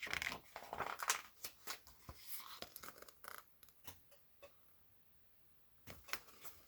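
Paper rustling and crackling as a picture book's pages are handled and turned, a cluster of crackles over the first few seconds, a pause, then a few more clicks near the end.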